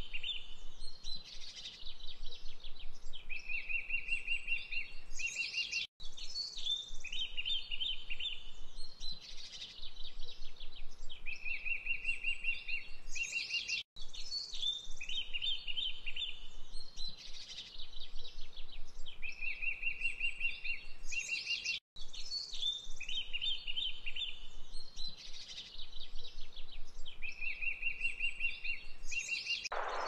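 Several birds singing high chirps and calls, with a rapid trill of evenly spaced notes; the same eight-second stretch of birdsong repeats, with a brief dropout between repeats. Rushing water cuts in at the very end.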